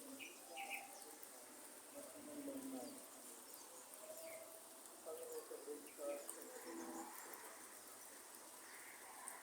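Forest birds calling faintly: many short, low cooing notes typical of doves, with a few brief higher chirps, over a steady high insect drone.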